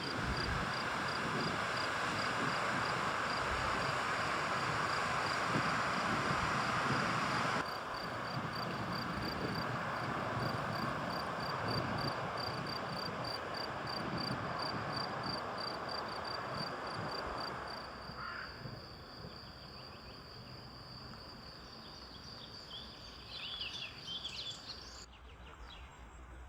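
Outdoor natural ambience: a steady rushing noise for the first several seconds, a high chirp repeating a few times a second, and short bird calls near the end. The background changes abruptly at a few points where clips are cut together.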